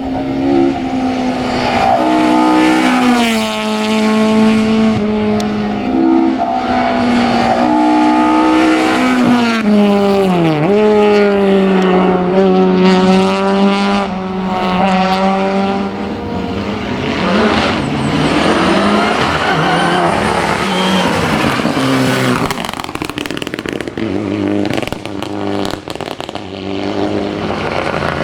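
Ford Escort Zakspeed race car driven hard uphill, its engine rising in pitch and dropping back with each gear change, with a sharp drop about ten seconds in. After about sixteen seconds a Mitsubishi Lancer Evo VIII rally car takes over, its engine likewise rising and falling through the gears.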